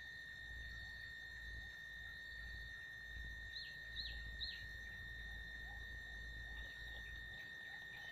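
Three quick downward-sliding bird chirps, about half a second apart, over a steady high-pitched whine and a low rumble of outdoor background noise.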